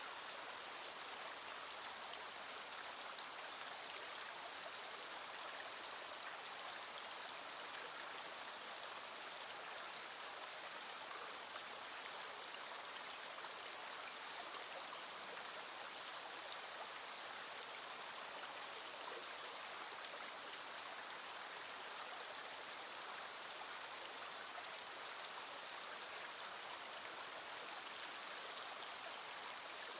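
Small stream running steadily over stones, a constant even rush of water with no change in level.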